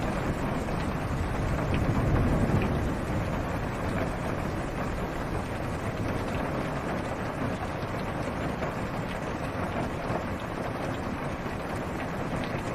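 Steady rain falling on a car's roof and windshield, heard from inside the car, with a low rumble of thunder dying away over the first few seconds.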